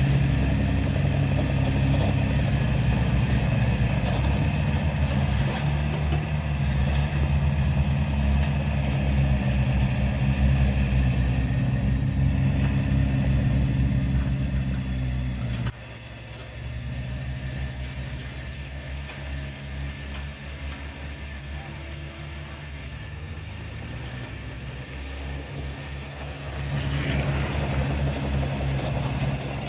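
Heavy construction machine's diesel engine running steadily under load. It drops suddenly to a lower, lighter run about halfway through, then picks up again near the end.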